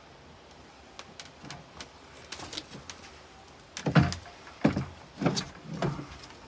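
A few light clicks, then four loud knocks or scrapes in quick succession about a second apart, like something being handled or struck during work.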